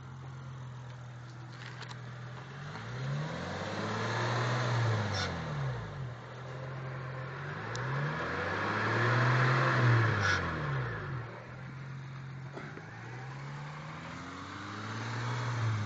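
A 2003 Honda Accord's 3.0-litre V6 is revved up from idle and let fall back three times. A metallic grinding rattle rises with each rev and is loudest at the second one, about two-thirds of the way in. The rattle comes from a loose heat shield over the catalytic converter.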